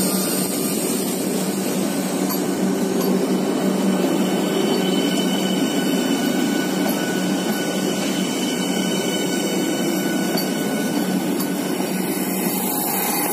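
Train 18, an engineless electric multiple-unit trainset, running past at speed: a steady rush of wheels on rail with a few thin, steady high tones above it.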